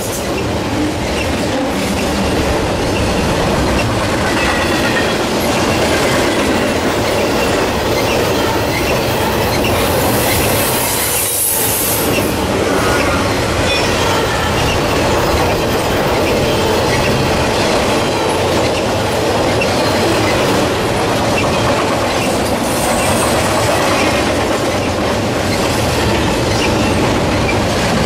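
Intermodal freight train of highway trailers on flatcars rolling past close by: a steady loud rumble of steel wheels on rail, with the clatter of wheels over rail joints and a few faint, brief wheel squeals.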